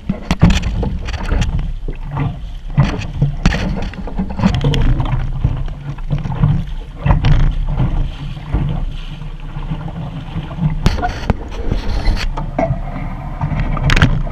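Wind buffeting an action camera's microphone aboard a small sailboat underway: a heavy, steady rumble with frequent sharp knocks and splashes from the hull and rigging.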